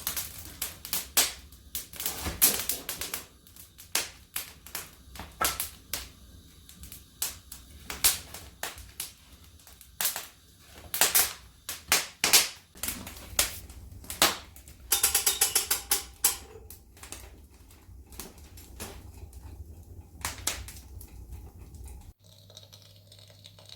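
Irregular sharp clicks and knocks, hard objects being handled or struck, with a quick rattling run of strikes about fifteen seconds in and a sudden change near the end.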